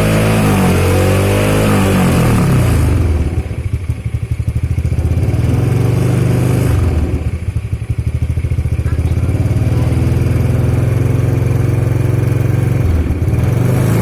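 Motorcycle with a re-drilled (hollowed-out) HMS aftermarket muffler, revved a few times and then left running with a loud, deep, choppy exhaust rumble. A brief blip of the throttle comes near the end.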